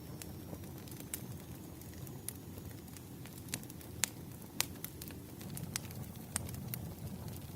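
Firewood burning: a steady low rumble of flames with sharp crackles and pops about once a second, the loudest two just past halfway.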